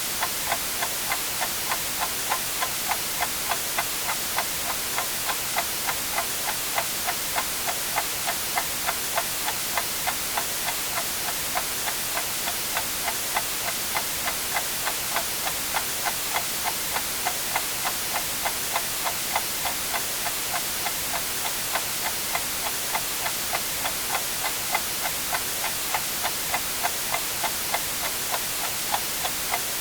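Clock ticking steadily at about two ticks a second over a constant hiss of white noise.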